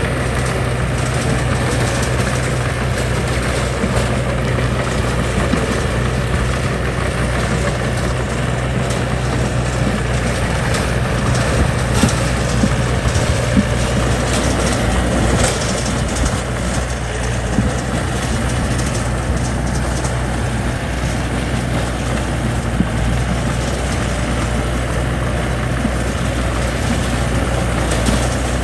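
Heavy construction machine's engine running steadily, with a few sharp knocks about halfway through.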